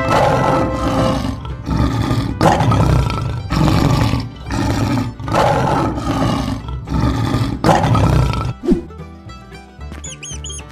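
A lion's roar sound effect, repeated about eight times in quick succession over upbeat children's background music. The roars stop about two seconds before the end, leaving the music.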